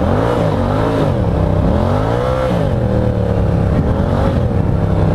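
Motorcycle engine revving up and down as the rider works the throttle on gravel, the pitch climbing and dropping several times, highest about two and a half seconds in.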